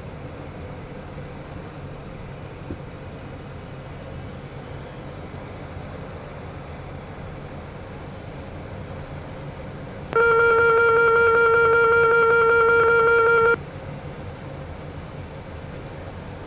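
Beechcraft Premier I cockpit with steady engine and airflow noise. About ten seconds in, a loud steady cockpit alert tone sounds for about three and a half seconds, then cuts off suddenly.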